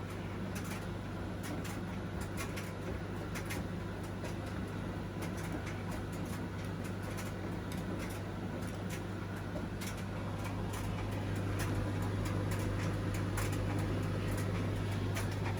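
Washing machine running: a steady low hum with irregular light clicks and ticks, growing a little louder about eleven seconds in.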